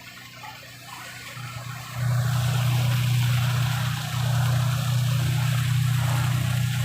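Ferry engine running with a steady low hum, under a rushing hiss of water and wind; both step up sharply about two seconds in and then hold steady.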